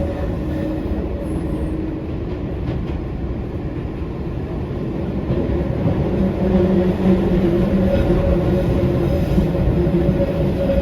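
Eizan Electric Railway 900-series "Kirara" electric railcar running, heard from inside the car: a steady rumble of wheels on rail with a steady motor hum. It grows louder about halfway through.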